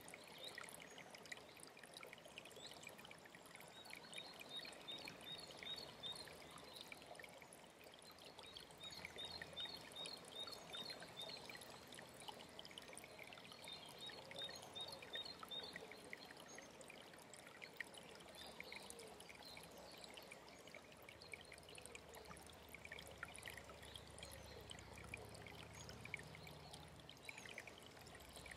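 Faint, steady trickling of a mountain stream, with small birds singing. Several times a bird gives a short run of evenly repeated high notes, about four a second.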